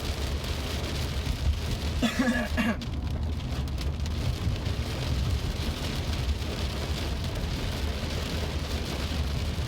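Steady heavy rain hissing, with a constant low rumble underneath. A voice cuts in briefly about two seconds in.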